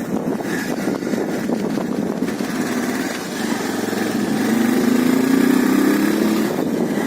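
Motorcycle engine running while riding. Its pitch rises a little as it picks up speed from about halfway through.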